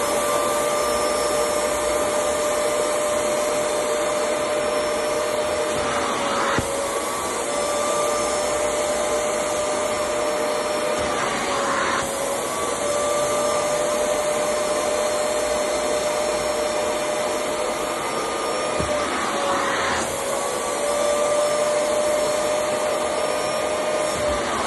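Vacuum cleaner running continuously with a steady airflow rush and a motor whine. The whine dips briefly in pitch a few times, about every six seconds, then recovers.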